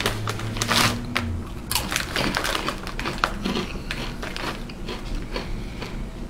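Crunchy rolled corn tortilla chips being chewed: a run of irregular crisp crunches.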